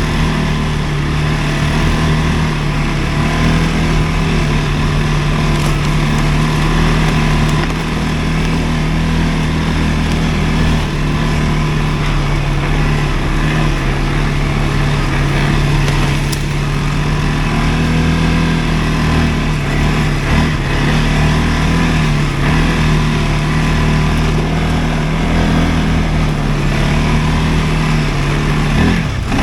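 CFMoto ATV engine running steadily at an even, moderate speed, its pitch barely changing.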